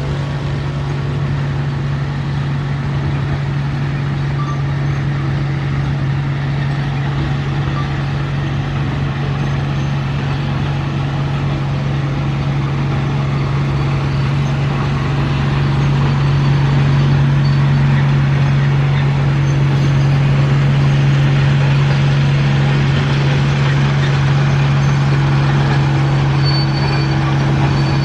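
Bulldozer's diesel engine running steadily under load, growing a little louder about halfway through.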